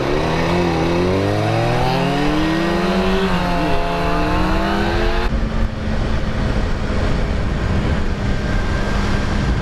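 Kawasaki ZX-6R inline-four sport bike engine accelerating, its pitch climbing for about five seconds with a brief dip in the middle, then the throttle closing suddenly about five seconds in. Wind rush over the microphone throughout.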